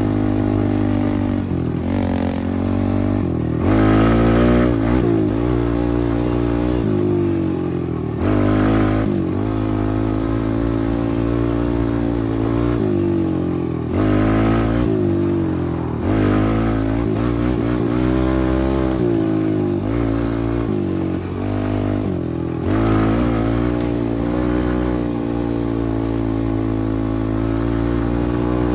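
Pit bike engine running hard under throttle, its pitch repeatedly climbing and dropping back as the rider accelerates, shifts and lets off, several times.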